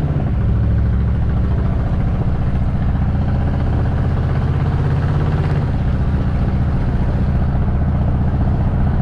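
Squarebody Chevrolet Suburban's engine running steadily, with a fast even pulse.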